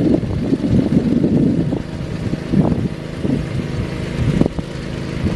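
Small garden tractor engine running under load, its note surging unevenly.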